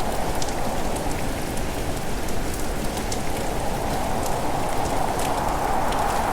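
Steady heavy rain falling, a dense hiss with scattered sharp drop ticks on top.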